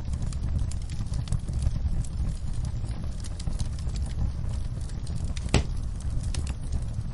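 Campfire crackling, with frequent small pops over a steady low rumble of burning and one sharper pop a little past the middle.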